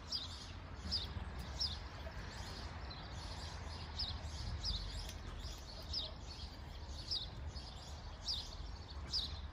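Faint short high chirps of a small bird, one or two a second at irregular intervals, over a steady low hum.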